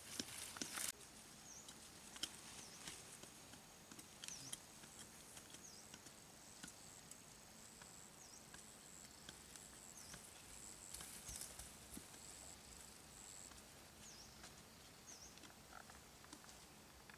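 Faint outdoor ambience. Brush rustles and crackles in the first second. After that, a small bird gives short high chirps every second or so, and a thin high steady whine runs for several seconds in the middle.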